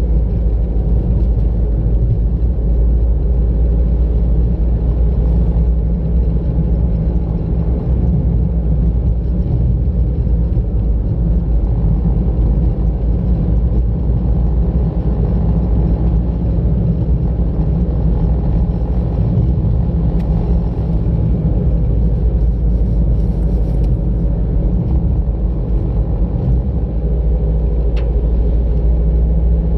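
A car being driven at a steady pace: a constant low rumble of engine and road noise. There is one brief click near the end.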